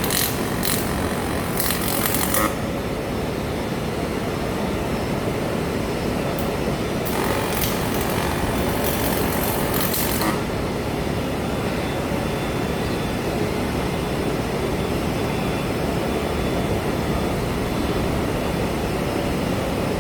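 Steady shop machine noise with bursts of welding arc hiss, the longest lasting about three seconds in the middle.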